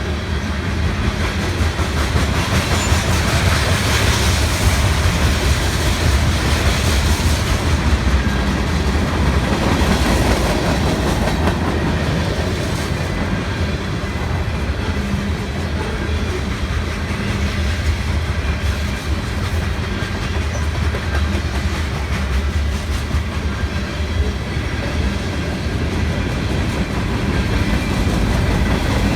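Freight train's cars rolling past at close range, wheels clicking over the rail joints in a steady clickety-clack with a heavy low rumble.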